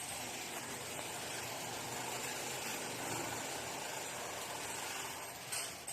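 Washing machine running with a steady, even noise during a tub-cleaning cycle with enzyme cleaning powder.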